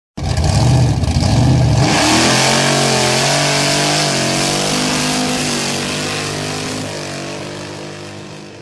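Car engine running loud with a low rough rumble, then revving up about two seconds in and holding high revs as the sound slowly fades away.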